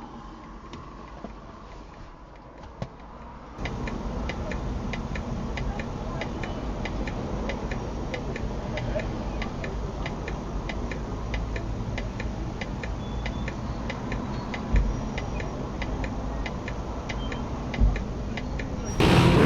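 Regular ticking, about four ticks a second, over a steady low rumble, with two short thumps near the end.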